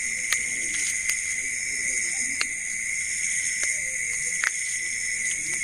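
Night insect chorus: a steady, high-pitched shrill drone that holds unbroken throughout, with faint distant voices murmuring and a few sharp clicks.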